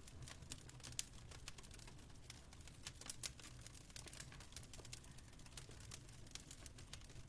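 Wood fire crackling quietly, with irregular sharp pops and snaps over a steady low rumble.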